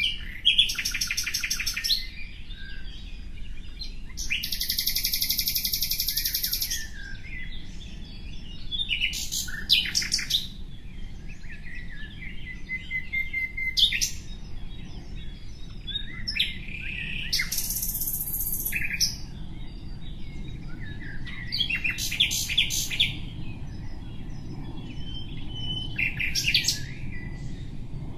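Bird song: three long, harsh buzzy phrases of about two seconds each, with shorter bursts of chirps and trills between them, over a steady low background rumble.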